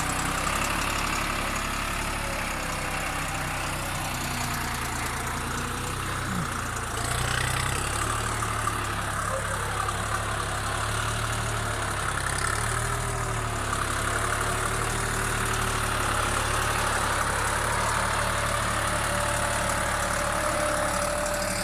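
Deutz-Fahr Agrolux 50 4WD tractor's diesel engine running steadily, getting a little louder about seven seconds in.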